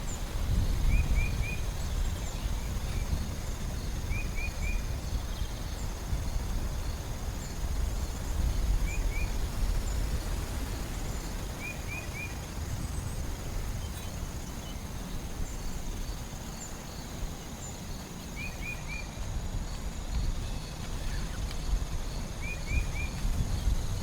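Forest ambience: a bird gives a quick three-note chirp about six times, every few seconds, over a steady high insect drone. A low, uneven rumble runs underneath.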